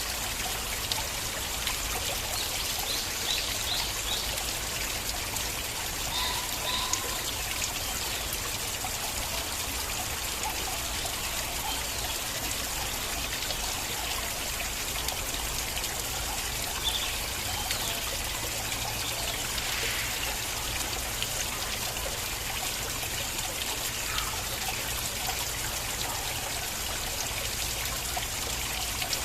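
Small stream of water flowing and trickling steadily, a constant hiss with small gurgles and splashes scattered through it.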